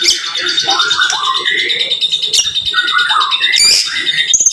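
White-rumped shama (murai batu) singing a dense, rapid run of varied whistled notes, sweeps and trills, with a steady high tone running underneath.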